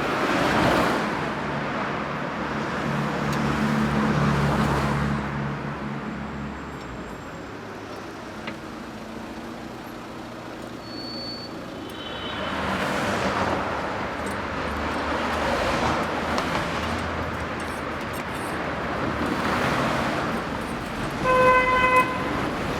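Street traffic: vehicles pass in several waves that swell and fade, with an engine running low early on. Near the end a car horn sounds once, briefly, and is the loudest thing heard.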